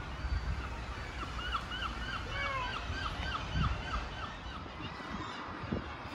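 A bird calling: a rapid run of about a dozen short, falling notes, some four a second, starting about a second in and stopping before four seconds, over a steady low outdoor rumble.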